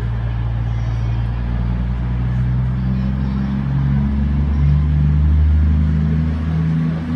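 Diesel train engine running under power, a deep steady drone whose note shifts in steps and swells to its loudest about five seconds in.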